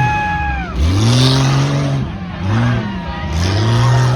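Off-road truck engine revving hard in three repeated bursts on the obstacle course, each climbing quickly, holding briefly, then dropping back. A short high squeal slides down in pitch in the first half second.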